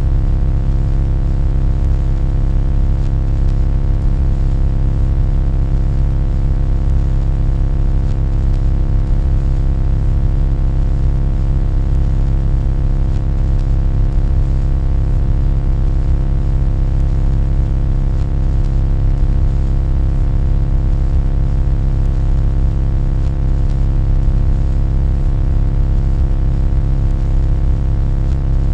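Loud, unchanging electronic drone: a deep rumbling buzz with many steady tones layered above it, played as an annoying noise track.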